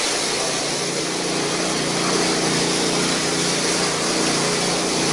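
An engine or motor running steadily at a constant speed, with a hiss.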